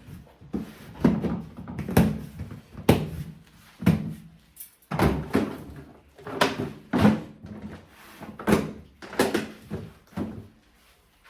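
Plastic litter box lids and boxes being handled and set in place, giving a run of sharp knocks and hollow thunks at roughly one a second.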